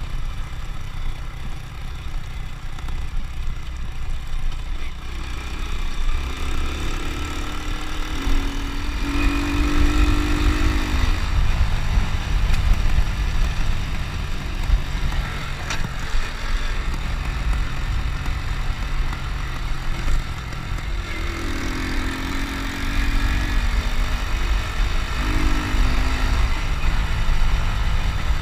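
Honda Win motorcycle's small single-cylinder engine running on the move, its note climbing in steps twice, about a third of the way in and again near the three-quarter mark.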